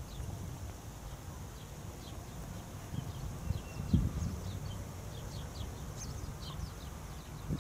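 Small birds chirping: many short, high, falling chirps throughout, over a low rumble of wind on the microphone. A single thump comes about four seconds in.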